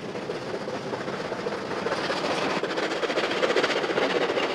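Steam-hauled express train passing at speed: a steady rush with rapid clatter of wheels over the rails, growing louder over the first two seconds.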